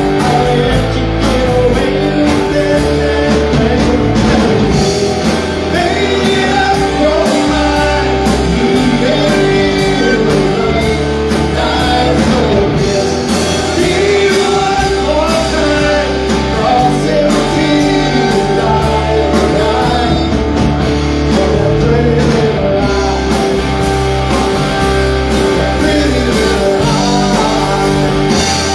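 Live rock band playing a song, with electric guitar and bass, and singing.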